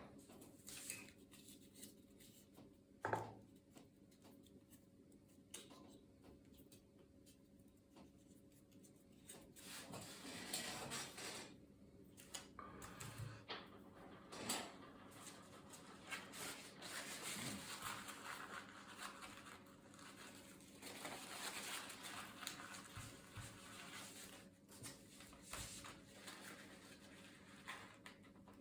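Faint scratching and rubbing, with a few sharp clicks and knocks, from handling laptop parts. It becomes a more continuous scratchy rubbing about a third of the way in.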